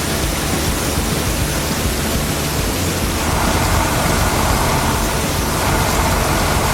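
Steady rushing noise that grows a little louder and brighter about three seconds in.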